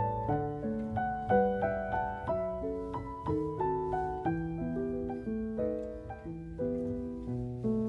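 Background piano music: a gentle melody of notes played a few to the second, each ringing and fading.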